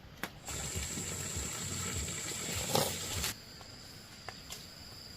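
Insects shrilling in a steady high pitch over a rustling hiss, which stops abruptly after about three seconds. A quieter, lower-pitched steady insect tone goes on after that, with a few faint clicks.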